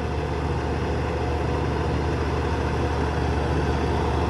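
Excavator's diesel engine running steadily with an even low hum and no impacts.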